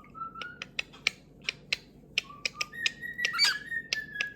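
A pet parrot whistling one long, steady note that steps up in pitch about three seconds in, over a quick run of sharp clicks, with a short squawk about three and a half seconds in.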